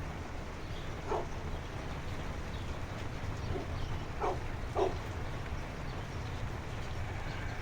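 A dog barking faintly four times, with short single barks spread out: one about a second in, then three more close together near the middle. Underneath is a steady low rumble of rain and outdoor noise.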